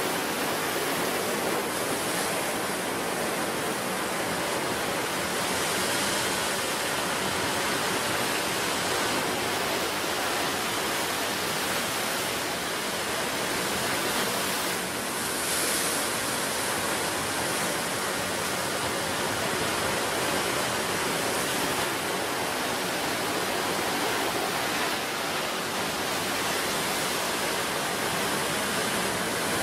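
Ocean surf: waves washing and breaking on the shore in a steady, unbroken rush, swelling slightly every few seconds.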